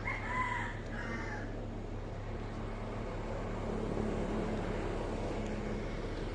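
Steady low drone of a car on the road, engine and tyre noise. In the first second and a half a short higher-pitched sound comes twice.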